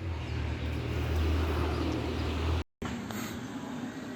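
A motor vehicle's engine running close by: a loud, steady low rumble that cuts off suddenly about two and a half seconds in, followed by a quieter steady hum.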